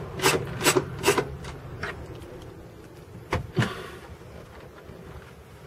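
Short rasping strokes at about three a second, dying away after the first second or so, then two sharp knocks about three seconds in: hand work on the car's interior trim and fasteners.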